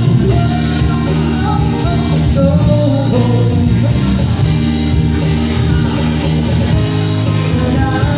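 Live band playing a slow pop love song, with guitar and a steady low bass-and-drum backing and a voice carrying the melody.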